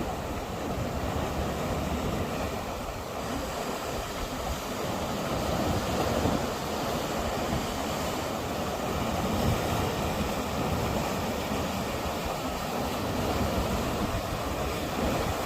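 Sea waves surging and breaking, a steady rushing noise that swells and eases a little, with a low rumble underneath.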